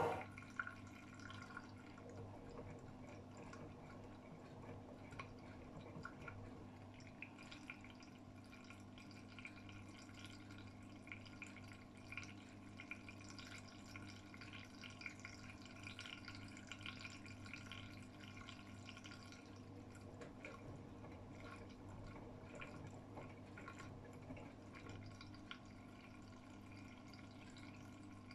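Faint water dripping and trickling inside the tub of an AEG Öko-Lavamat 76910 washing machine while the drum is still, over a low steady hum.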